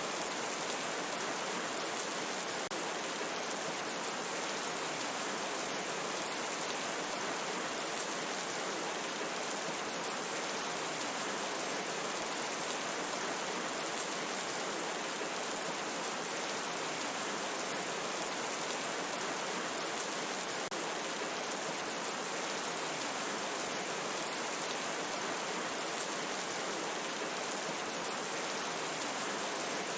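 Steady, even rain falling in a forest, a dense continuous hiss with no distinct drops or thunder.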